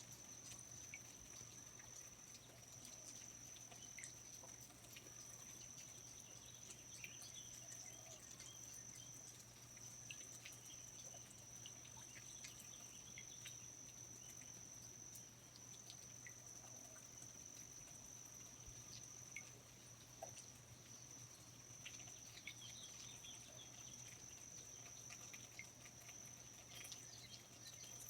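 Faint rainforest ambience: a steady, unbroken high insect trill, with scattered short chirps and soft drip-like ticks over it.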